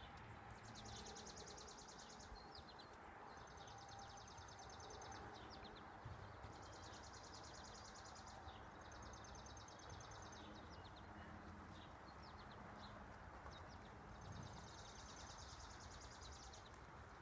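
A small bird's rapid, dry, high trill, each about two seconds long, repeated five times over faint steady outdoor noise.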